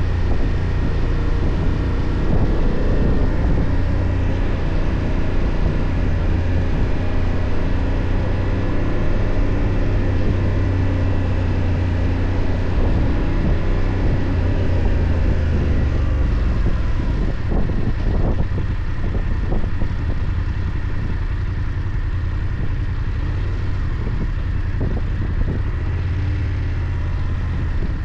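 BMW F 800 GS parallel-twin motorcycle engine running steadily under way, heard from the rider's own bike. It eases off a little about two-thirds of the way through.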